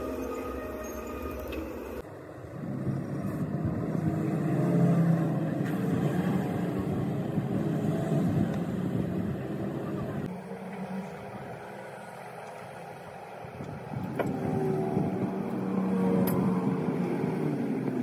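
Road traffic: motor vehicles passing, the sound swelling and fading twice.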